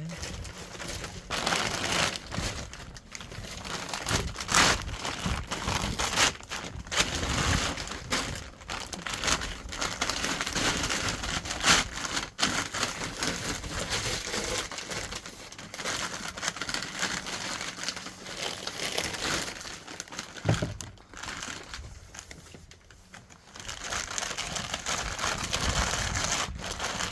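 Irregular crinkling and scraping of building materials being handled and worked, a busy run of rustles and small knocks that eases off for a few seconds near the end before picking up again.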